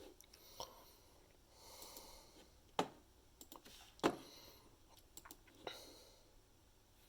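Soft breath-like noises close to the microphone and a handful of sharp clicks, the two loudest about three and four seconds in.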